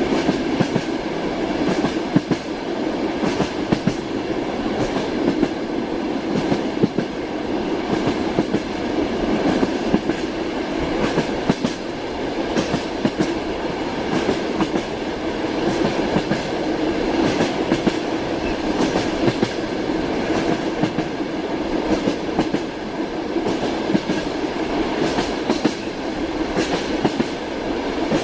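Passenger train running steadily, heard from inside the carriage: a continuous rumble with the clatter of wheels over the rail joints.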